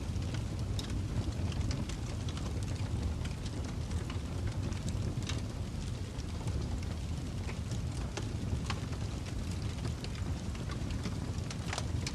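Fireplace fire burning with a steady low rumble and scattered sharp crackles and pops from the burning wood.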